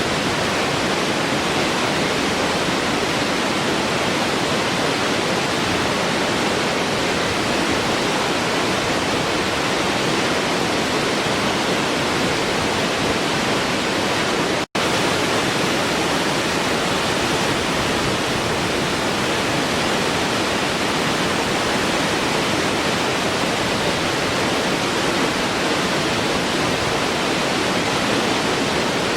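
Waterfall rushing steadily, an even roar of falling water. It cuts out for an instant about halfway through, as if at a splice in the recording, then carries straight on.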